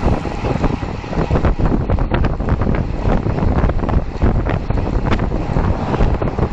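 Wind buffeting the microphone of a camera moving at riding speed: a loud, uneven rumble without any tone.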